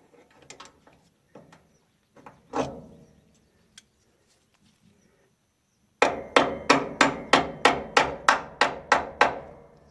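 A few light metal clicks and a single knock, then a quick run of about a dozen hammer blows on metal, about three a second, each ringing briefly.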